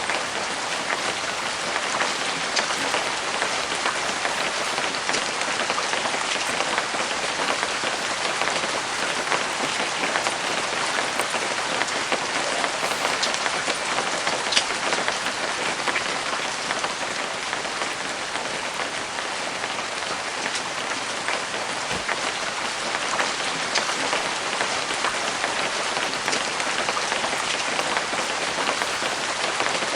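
Steady light rain pattering densely, with an occasional single sharper drip or click.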